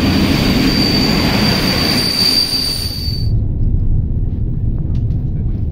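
Train running on rails: a steady low rumble with a high, steady squeal over it. About three seconds in, the high part and the hiss cut off suddenly, leaving only the low rumble with faint ticks.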